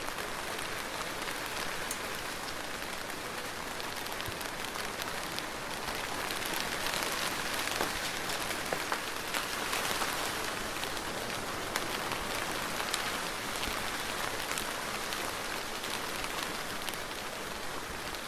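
Steady soft rain falling, a dense even hiss with many small drop ticks; it swells slightly a third of the way in and then eases back.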